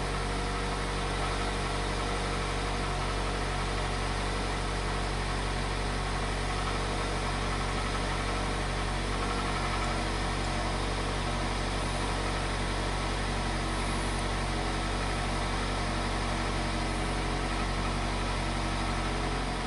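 2002 Toyota Corolla's four-cylinder engine idling steadily, heard from inside the cabin.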